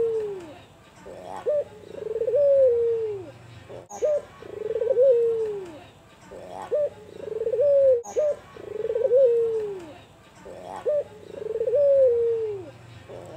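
Albino puter (Barbary dove) cooing: a phrase repeated about every four seconds, each one a couple of short clipped notes followed by a long rolling coo that falls in pitch.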